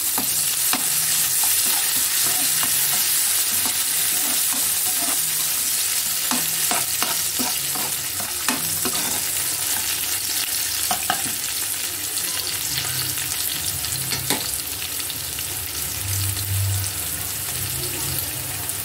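Chopped onions, green chillies and curry leaves sizzling in hot oil in a metal kadai, with a steady high hiss. A metal spoon stirs them, scraping and clicking against the pan, the clicks coming thickest about six to nine seconds in.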